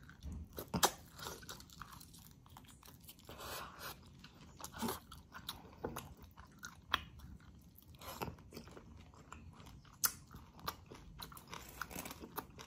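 A person chewing and biting chicken cooked in coconut milk, eaten by hand and heard up close: short mouth clicks and smacks at irregular intervals.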